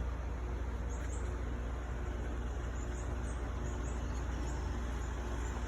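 Small bird chirping: short, high chirps at irregular intervals, over a steady low outdoor rumble and hiss.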